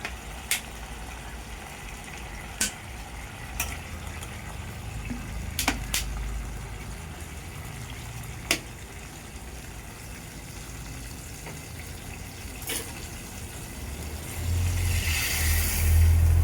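Cooking at a pot: a steady faint bubbling hiss with scattered sharp clicks of a utensil against the pot, then a short rush of poured water near the end as water is added. A loud low rumble starts near the end.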